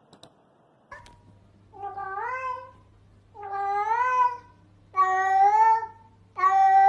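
A cat meowing: four long, drawn-out meows, each rising in pitch and then holding, getting louder from one to the next, over a steady low hum.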